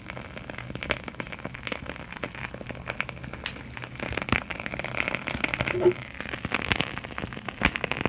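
Wooden-wick candles crackling: irregular small pops and clicks, growing denser and louder about halfway through.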